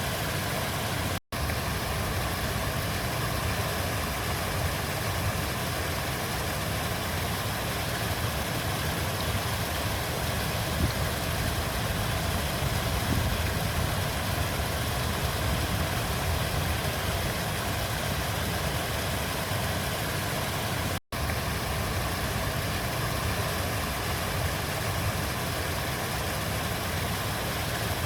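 River water flowing with a steady, unbroken rush and a deep low rumble. The sound cuts out for an instant twice, about a second in and again about 21 seconds in.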